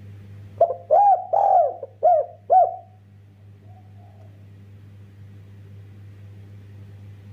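Spotted dove (derkuku) cooing: one phrase of five arched, mellow coo notes in about two seconds, then one faint coo about a second later.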